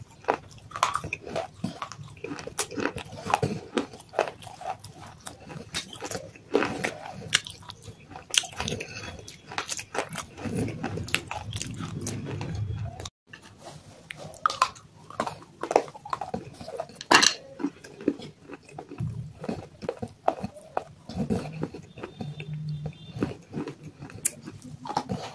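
Close-up biting and chewing of hard clay pieces: a steady run of crisp crunches and snapping crackles, with a very brief break about halfway through.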